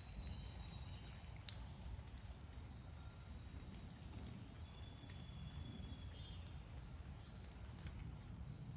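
Backyard birds calling faintly, with a run of short high chirps in the middle and a few thin whistled notes, over a steady low background rumble.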